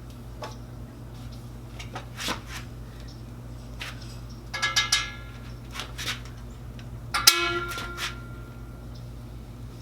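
Metal tools and parts clinking and clanking, with a few ringing clinks about halfway through and then a sharp metallic clang that rings on briefly. A steady low hum runs underneath.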